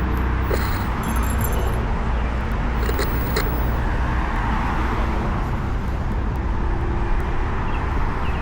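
Steady city street traffic noise with a low rumble of wind on the microphone, heard from a Onewheel riding along. Brief faint high-pitched squeals come about one and three seconds in.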